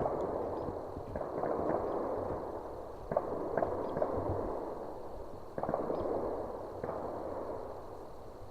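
Distant gunfire from a shooting range: shots in quick succession, overlapping, each a sudden report trailing off in a long echo.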